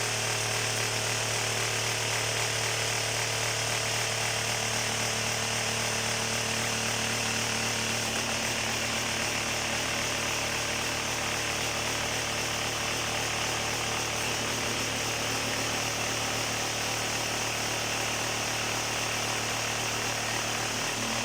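Vibrating table running steadily with a constant hum, shaking fresh concrete so it settles and spreads in the mould.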